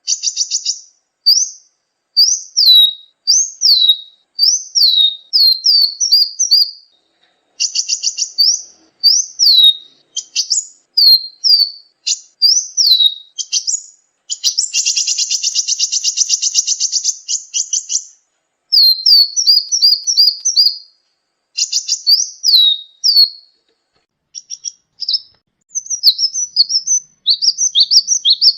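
Sunbird (kolibri) singing: quick series of high, sharply downslurred whistled notes, broken by a long, rapid, buzzy trill about halfway through.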